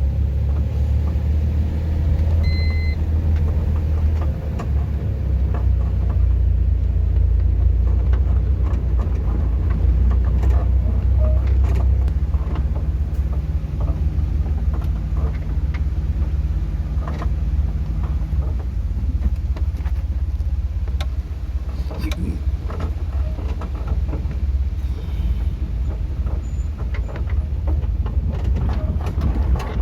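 Steady low rumble of a vehicle driving, with scattered knocks and rattles throughout and a brief beep about two and a half seconds in.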